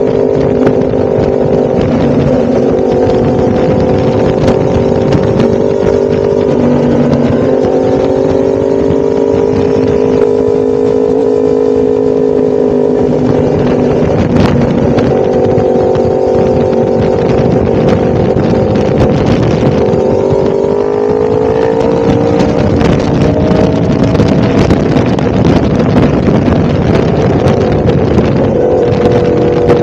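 A 1000cc motorcycle engine running under way at a fairly steady speed, its note drifting slightly and climbing about twenty seconds in as it picks up revs.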